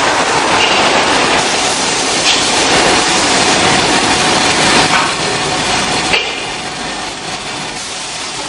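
Factory production-line machinery running: a loud, steady rushing din with a few faint clicks, a little quieter from about five seconds in.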